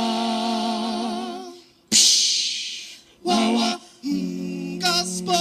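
Voices singing a cappella: a held chord with vibrato fades out, then a sudden loud hiss about two seconds in dies away over a second. A short sung note follows, and a new chord is held from about four seconds in.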